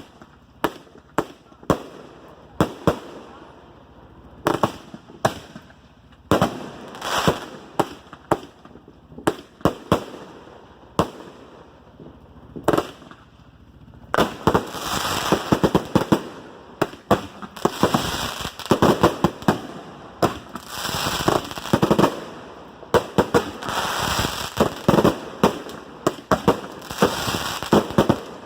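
Old fireworks going off: an irregular string of sharp pops and crackles, scattered at first, then from about halfway through a dense, nearly continuous crackling with a hiss under it.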